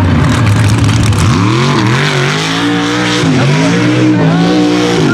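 Unlimited-class mega truck engine revving hard on the race course, its pitch climbing and dropping several times as the driver gets on and off the throttle.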